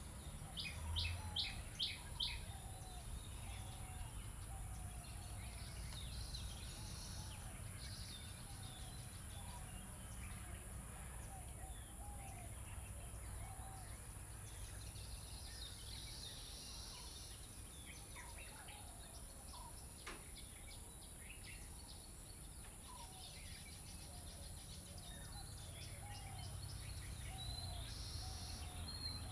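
Birds chirping in the background with short repeated notes over a steady low hum, with a quick cluster of sharp high clicks about a second in.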